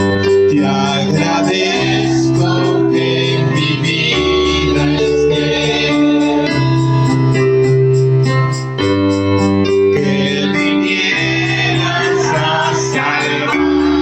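Worship band music: sustained electric keyboard/organ chords over bass notes that change every couple of seconds, with a steady drum beat.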